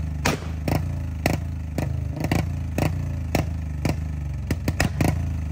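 Motorcycle engine idling with sharp exhaust pops about twice a second, coming faster near the end: misfire popping through an open exhaust.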